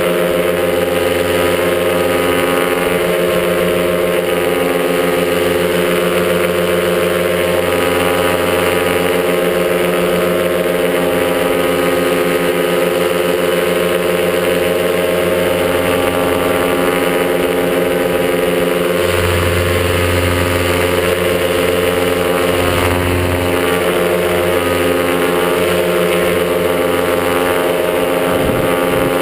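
Top80 paramotor, a single-cylinder two-stroke engine driving a propeller, running steadily at a constant pitch.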